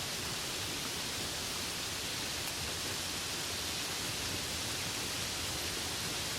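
Steady rainfall, a dense even hiss with no breaks or claps.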